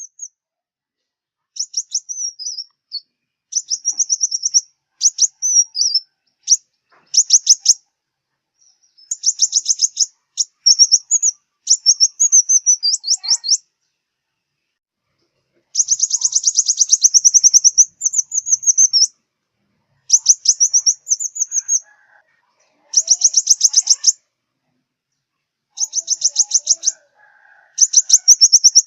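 Sunbird song: rapid, high-pitched trilling chirp phrases, each a second or two long, repeated with short pauses.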